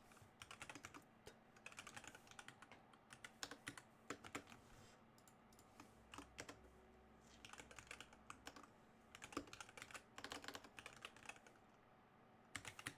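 Computer keyboard typing in several short bursts of keystrokes with brief pauses between them, faint and close to the microphone.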